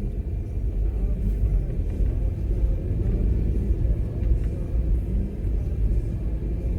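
Steady low rumble of a car, as heard from inside the cabin.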